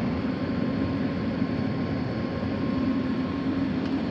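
Steady mechanical drone of an HVAC indoor air handler running, a low hum with a faint steady whine above it.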